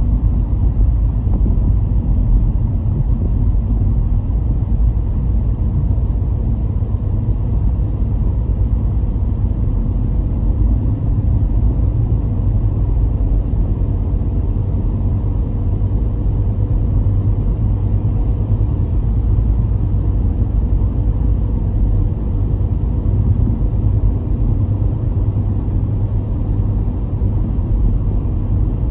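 A moving car's steady low rumble of road and engine noise, without change.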